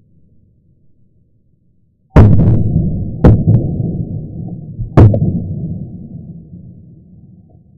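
Three firecracker bangs heard as deep booms, the second about a second after the first and the third nearly two seconds later, each trailing off in a long low rumble.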